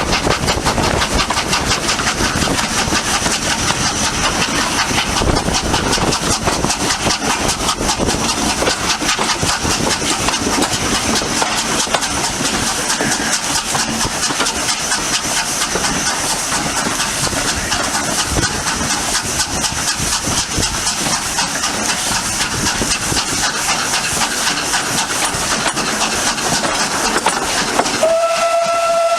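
Steam tank locomotive working along the line, with rapid exhaust beats and hiss. About a second before the end its steam whistle starts: one steady tone that carries on.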